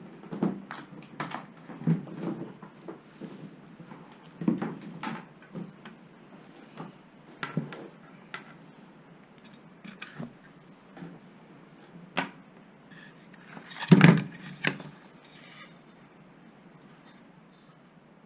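Scattered knocks, clicks and light rubbing of tools and parts being handled on a workbench, with the loudest knock about 14 seconds in.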